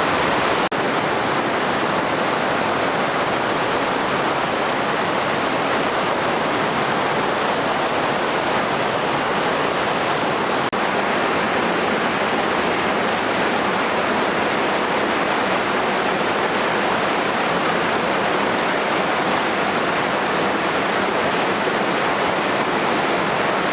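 River rushing past close by, a steady, loud roar of moving water.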